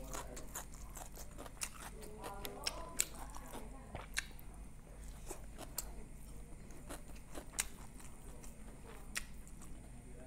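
A person chewing a mouthful of rice and steamed egg close to the microphone: scattered sharp mouth clicks and smacks. A faint murmur of voice comes about two to three seconds in.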